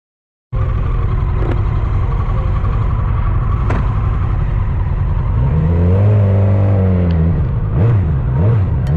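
Motorcycle engine heard from on board while riding, cutting in suddenly about half a second in: steady running at first, then from about halfway the revs rise and fall several times.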